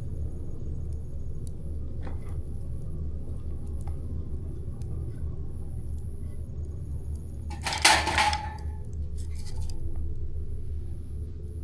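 Campfire burning, with faint crackles over a low steady rumble. About eight seconds in comes a brief, loud jangling clatter, and a softer one a second later.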